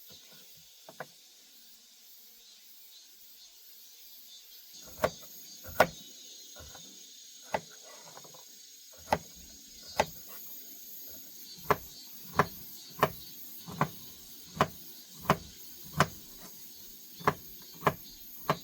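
A run of sharp, loud clicks, about fifteen of them, beginning about five seconds in and coming roughly every two-thirds of a second at uneven spacing. Under them is a thin, steady, high insect buzz.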